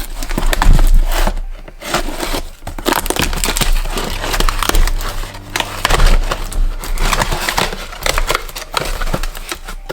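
Cardboard box and its packaging being torn open and handled, a dense irregular run of crackling and rustling, to get a bench vise out.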